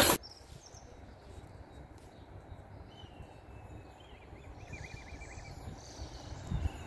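Quiet outdoor ambience at a railway line, with a low rumble throughout. A bird twitters a short phrase a few seconds in. A brief loud noise cuts off right at the start, and the rumble swells near the end.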